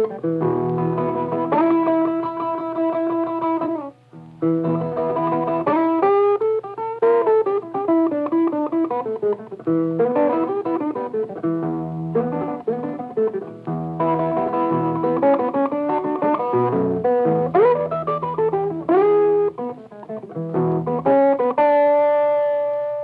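Blues guitar played solo, with notes sliding and bending in pitch over a steady bass line, ending on a held chord that rings out and fades away.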